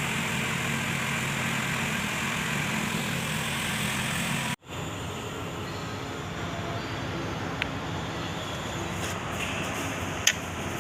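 Kubota D905 three-cylinder diesel engine running steadily. The sound cuts out sharply just before halfway and resumes a little quieter, with two short clicks later on.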